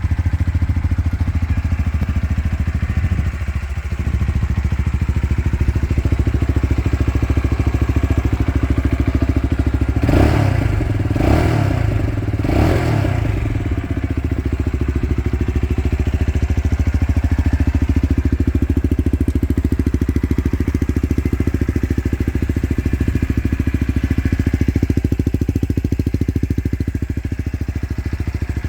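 Lexmoto LXR 125 SE's single-cylinder 125 cc engine running at a steady idle. About ten seconds in, the throttle is blipped three times in quick succession, each rev rising and falling back to idle.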